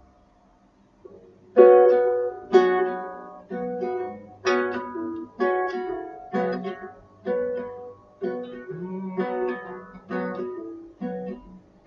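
Chords strummed on a plucked string instrument, one strum about every second, each ringing and then dying away. The strumming starts after about a second and a half of near quiet.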